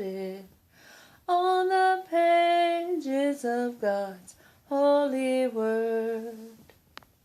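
A woman singing a gospel hymn unaccompanied, phrase by phrase, ending on a long held low note about six and a half seconds in. A few faint clicks follow near the end.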